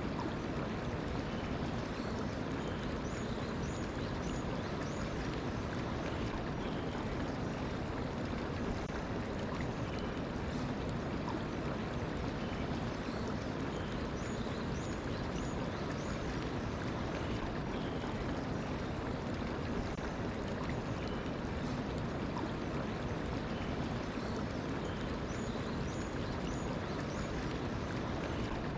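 Stream water running steadily. A bird sings a short phrase of a few quick high notes three times, about every eleven seconds.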